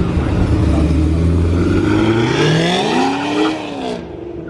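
Tuned late-model Cadillac CTS-V's V8 running with a deep, steady note, then revving up as it pulls away, pitch rising for about a second and a half and dropping back near the end.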